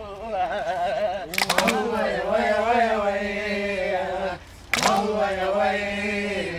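A group of voices chanting in unison in long held, wavering notes, in two phrases, each opening with a few sharp strikes.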